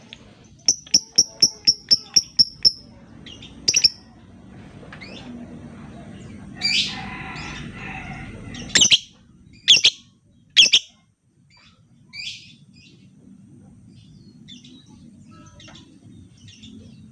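Lovebird calling in high, shrill chirps. A quick run of about eight chirps comes first, then scattered sharp calls and a harsher chattering call, with three loud shrieks about a second apart around the middle.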